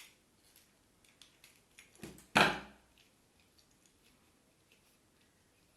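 Small metallic clicks and taps of a tool tightening nuts on a double-pole main switch, with a thump and then one loud sharp knock about two and a half seconds in.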